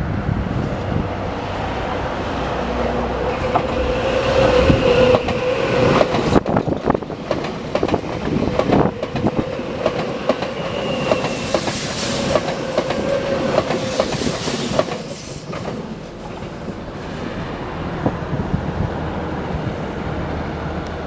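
Nankai 6000 series stainless-steel electric commuter train passing close by: its wheels clatter over the rail joints and the sound swells as it approaches. A brief high wheel squeal comes about halfway through, and after about two-thirds of the way the train has gone by and its rumble fades.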